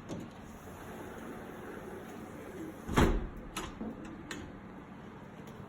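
A sharp thump about three seconds in, followed by two lighter clicks, over a steady low hiss.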